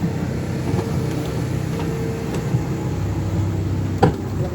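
Miniature railway train running steadily, its engine giving a low, even drone, with one sharp click about four seconds in.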